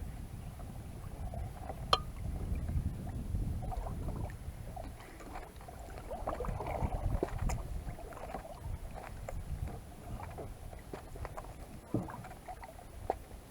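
Kayak paddle strokes, the blades dipping and splashing in the water, over a low rumble, with a sharp knock about two seconds in and another near the end.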